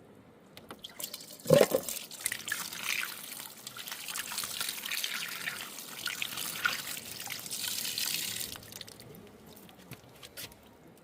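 Water splashing and trickling with many small clicks and drips, and one sharp knock about a second and a half in.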